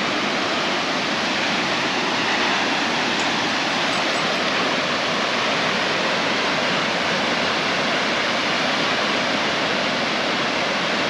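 Heavy volume of water pouring over a waterfall: a steady, unbroken rush of falling water.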